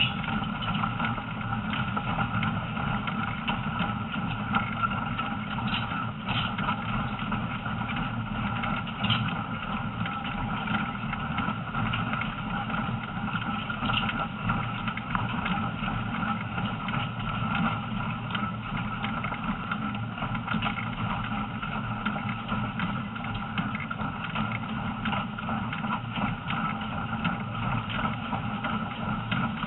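Heritage passenger train running along a forest branch line, heard from aboard: a steady rumble of wheels and running gear with a constant hum.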